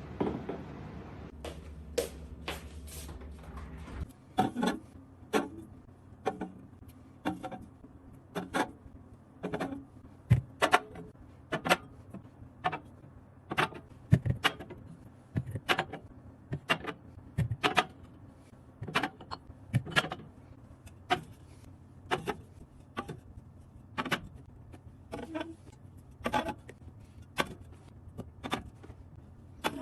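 Household objects being handled and set down: a long run of separate knocks and clicks, roughly one or two a second. A low hum cuts off about four seconds in.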